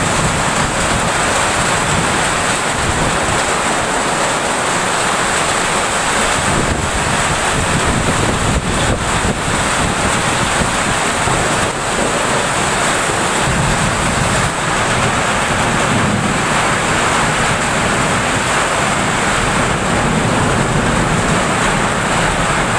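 Heavy rain pouring down in a storm wind, a loud steady rushing hiss, with wind buffeting the microphone.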